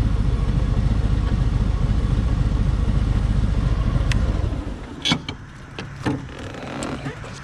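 Harley-Davidson Freewheeler trike's Milwaukee-8 107 V-twin engine running loud and pulsing while riding. About four and a half seconds in the sound drops off to a quieter, steady low hum as the trike slows, with a few sharp clicks.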